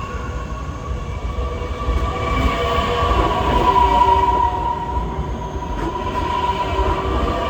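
Metra Electric commuter train running, a steady rumble with a held high whine that swells louder in the middle, then eases.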